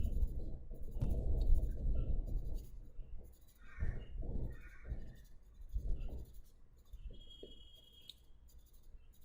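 Pencil shading on paper: steady back-and-forth rubbing for the first couple of seconds, then a handful of separate strokes, fading away in the last few seconds.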